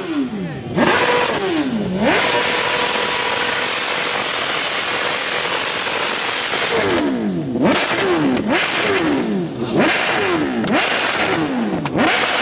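Engine held at steady high revs, then revved hard over and over, about once a second, in the last few seconds.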